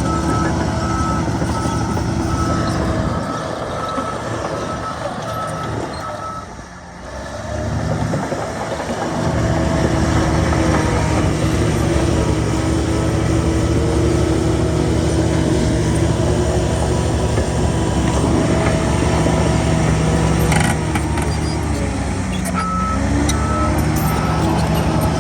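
Heavy diesel earthmoving machinery running under load, with a reversing alarm beeping at the start and again near the end. The engine drops off briefly about seven seconds in, and its pitch sags and recovers shortly before the beeping returns.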